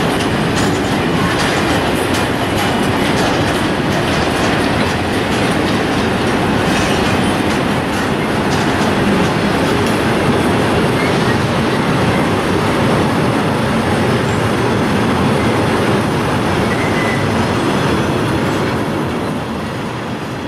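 Freight train of covered car-carrier wagons rolling past on the through line, a steady heavy rumble with the wheels clicking over the rail joints. It begins to die away near the end as the last wagons pass.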